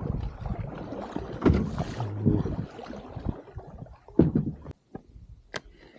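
Rumbling wind noise with water and handling sounds on a kayak, dying away after about three seconds; a loud knock about four seconds in and a sharp click near the end.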